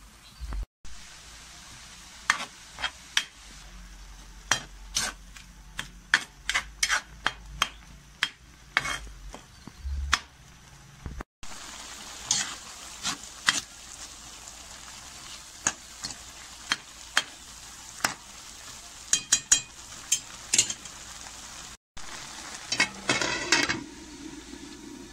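Bagoong alamang (krill shrimp paste) with tomato and onion sizzling in a pan as it is stirred, with many sharp clicks of a utensil against the pan. Near the end comes a quick run of clatters as the lid is set on the pan.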